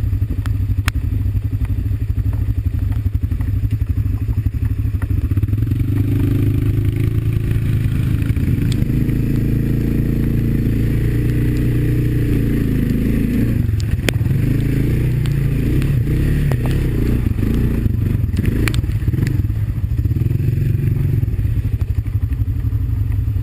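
Honda four-wheeler's single-cylinder four-stroke engine running as it is ridden, its note rising and falling with the throttle. Scattered knocks and rattles from the quad bouncing over the trail.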